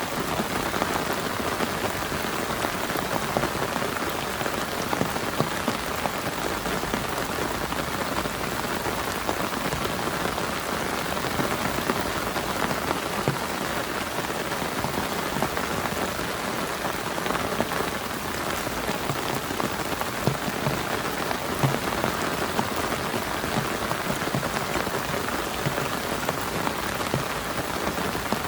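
Heavy rain falling steadily on a camp tarp, with scattered louder single drop hits.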